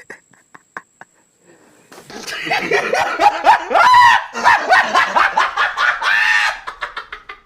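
Animal cries: a dense run of overlapping rising and falling calls, loud for about four seconds in the middle, after a few faint clicks at the start.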